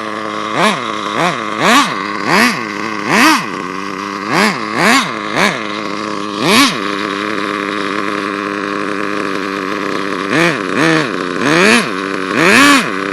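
HPI 4.1 nitro engine in an HPI Savage RC truck being blipped on the throttle: about a dozen quick rev-ups and drops, with a steady idle in the middle stretch. The engine revs freely because the gear is slipping and spinning without biting, so the drive isn't being driven.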